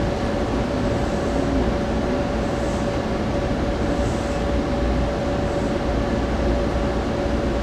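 Steady hum and noise of a Keikyu 2100-series train standing at a platform, heard from the driver's cab, with a faint steady whine over it.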